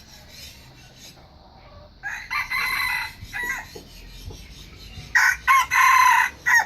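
Red junglefowl rooster crowing twice, short clipped crows, the second louder, as used to call wild junglefowl with a decoy bird.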